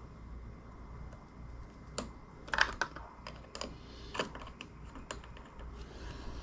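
Irregular light clicks and taps of small hard parts being handled, with a louder cluster of clicks about two and a half seconds in.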